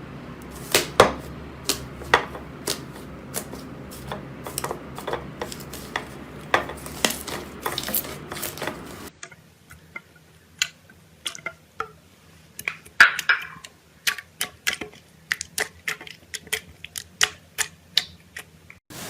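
Slime being squeezed and poked by hand, making irregular sticky clicks and pops. About nine seconds in, the background hum drops away and the clicks go on against a quieter background.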